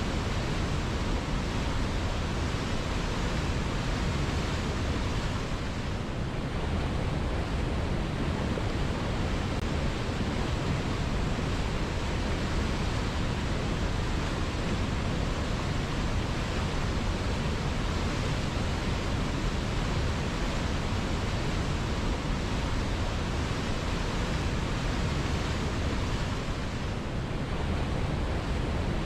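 River water flowing steadily, a continuous rushing noise with no distinct splashes.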